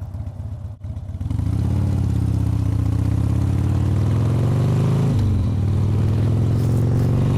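Harley-Davidson Sportster 1200's air-cooled V-twin pulling as the bike accelerates, its pitch climbing, then dropping for an upshift about five seconds in and climbing again.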